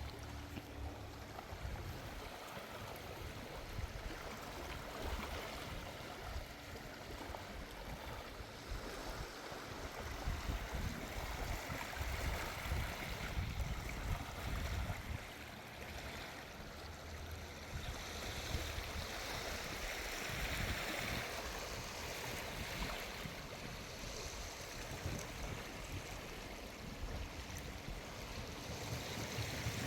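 Small waves washing up and back on a sandy shore, swelling in a couple of places, with sea breeze gusting and rumbling on the microphone.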